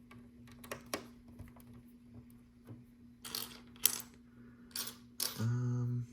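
Small plastic LEGO pieces clicking and clattering as loose bricks are sorted and picked out by hand, with a few sharp clicks first and then several short rattling clatters. A short hum of the voice near the end.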